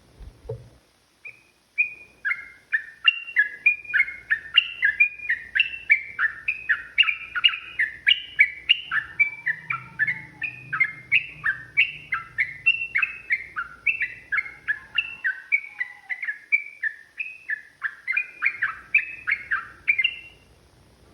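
Sooty-headed bulbul singing a long unbroken run of short whistled notes, about three a second, many falling in pitch, lasting nearly twenty seconds. A brief knock comes just before the song starts.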